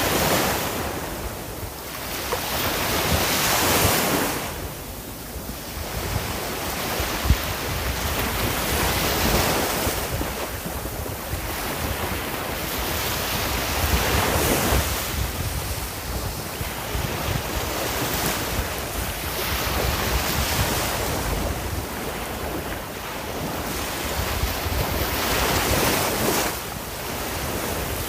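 Ocean surf: a continuous rush of waves breaking and washing in, swelling and easing every few seconds.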